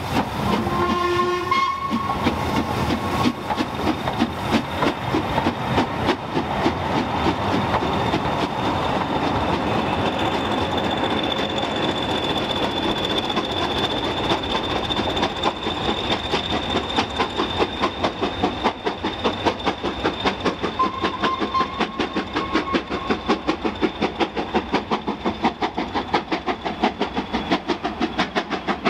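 Passenger coaches of a heritage steam train rolling past, wheels clattering rhythmically over the rail joints, the clatter more distinct near the end. A short whistle blast sounds about a second in. A steady high whine joins from about ten seconds in as the Class 20 diesel at the rear goes by.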